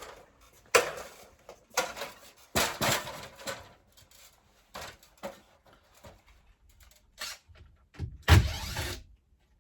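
Irregular knocks, scrapes and rustles of hands-on work, one every second or so, with the loudest a heavy thump with a low rumble near the end.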